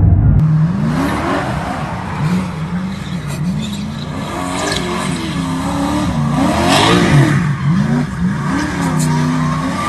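A car engine revving hard, its pitch rising and falling again and again.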